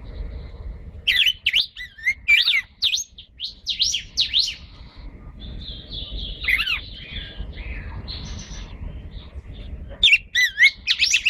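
Pet songbirds singing and chirping: quick clusters of sweeping whistled notes, a run of buzzier held notes in the middle, and a fast burst of chirps near the end.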